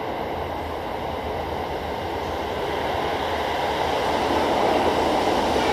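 Toei Shinjuku Line test-run train coming through an underground station without stopping. Its steady rumble grows louder throughout.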